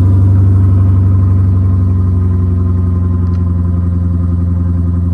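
Lexus IS F's 5.0-litre V8 running at a steady high idle just after a cold start, easing slightly in level.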